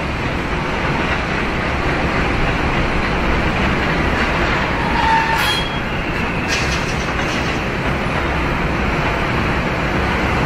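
A Nara Line 205 series electric train running along the station tracks: a steady running noise, with a short wheel squeal about halfway through.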